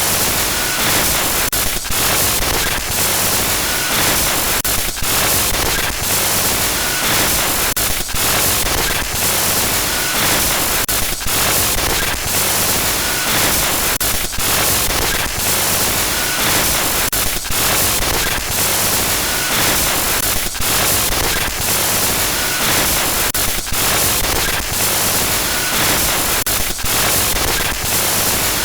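Loud harsh static glitch noise, a hiss across all pitches that stutters with brief dropouts. A short faint tone recurs about every three seconds.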